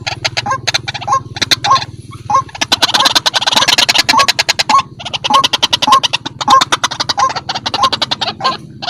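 White-breasted waterhen (ruak-ruak) calling: a fast run of rough clicking notes with a repeated rising 'kru-ak' note about twice a second, broken by a short pause about two seconds in.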